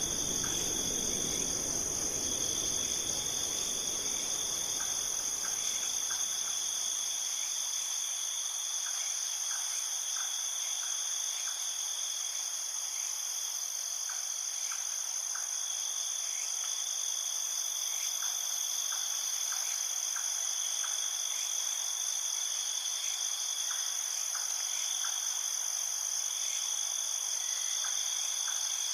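A steady chorus of crickets and other insects trilling without a break, with faint short chirps scattered throughout. A low rushing noise fades away over the first several seconds.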